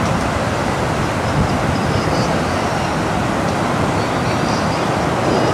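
Steady rushing of a flooded creek running high and fast.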